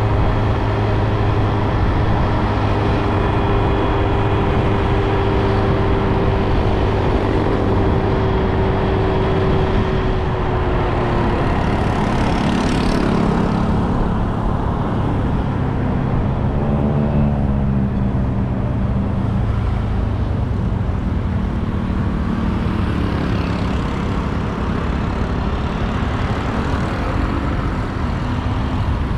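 Motorbike engine running steadily while riding on the road, with wind and road noise; around halfway the engine's pitch wavers briefly.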